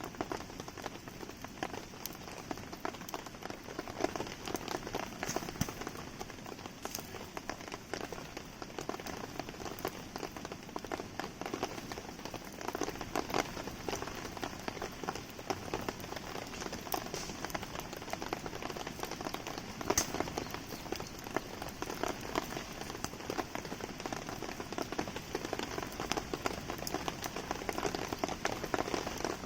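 Steady rain falling, mixed with the crackle of a wood campfire: an even hiss of rain scattered with many small sharp pops and ticks.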